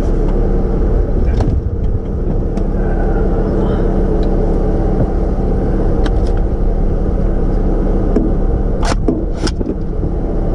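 A motor vehicle's engine idling steadily, with several sharp clicks and knocks scattered through it.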